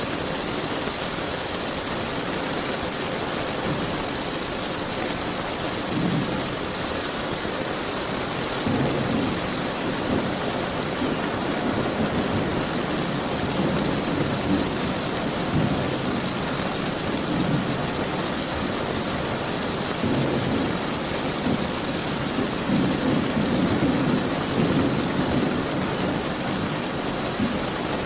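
Steady rain falling, with thunder rolling in low rumbles that come and go from a few seconds in, the longest and loudest near the end.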